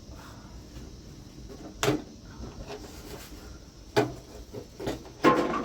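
Three sharp knocks of household objects being handled or set down: about two seconds in, about four seconds in, and a louder one near the end.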